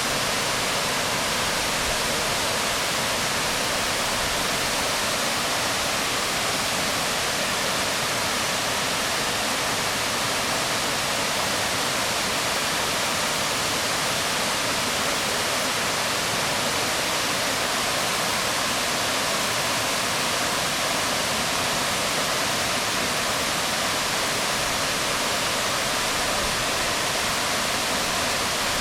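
Waterfall pouring onto rocks: a steady, even rush of falling water with no change in level.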